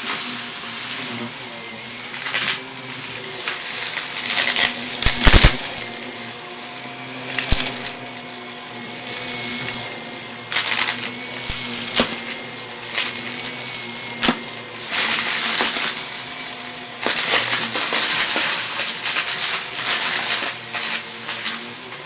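Vacuum cleaner running with a steady motor hum and a thin whine while it sucks up crunchy debris: continuous crackling with sharp clicks and rattles as pieces are pulled in, the loudest burst about five seconds in.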